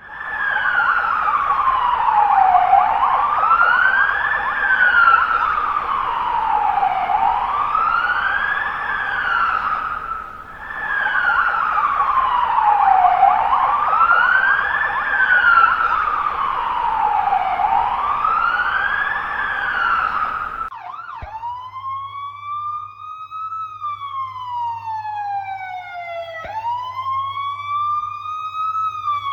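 A siren wailing up and down, each rise and fall taking about four seconds. About twenty seconds in it cuts out and a cleaner-toned siren takes over: it rises slowly and falls away, then starts again with a sharp rise near the end over a low steady hum.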